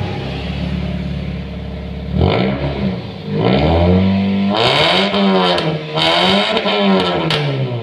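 Toyota Yaris engine through an NDK full-system exhaust with a DK-01 V2 racing muffler, idling steadily for about two seconds, then revved in a short blip and a few longer revs, each rising in pitch and falling back.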